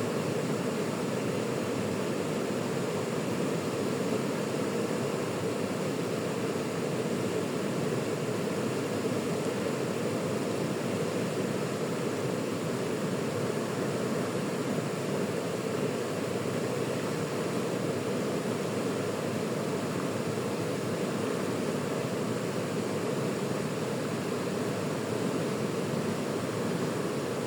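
River water rushing, a steady, even wash of sound with no breaks or changes.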